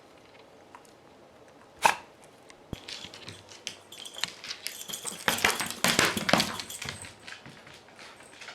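Dog-related handling noise: one sharp knock about two seconds in, then several seconds of dense clicking and rustling that is loudest around six seconds in. There is no howl.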